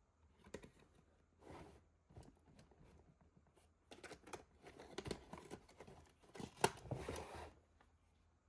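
Small objects being handled close by: rustling and crinkling with scattered light clicks and taps, busiest in the second half.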